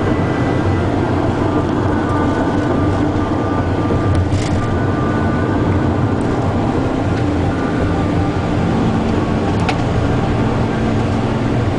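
Steady engine and road noise heard inside a moving tour coach, with a couple of faint clicks.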